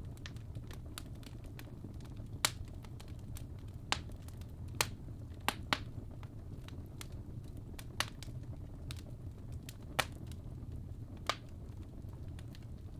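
Fire crackling in a fireplace: a steady low rumble of burning with irregular sharp pops, about eight louder ones spread through, two of them close together around the middle.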